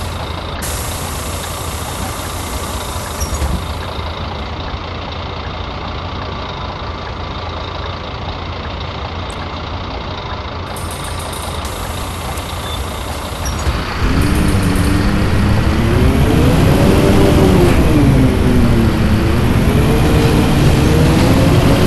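Scania bus diesel engine, a steady low rumble at first. About two-thirds of the way through it gets suddenly louder and its pitch rises, falls and rises again as the bus accelerates.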